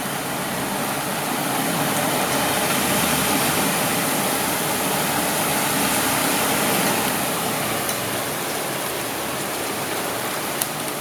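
Heavy rain pouring steadily, with a few faint sharp ticks.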